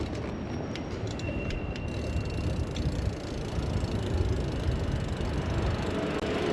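Bicycle ride through city traffic: steady road and traffic noise with wind rumbling on the microphone. A thin high tone sounds for about a second and a half, starting about a second in.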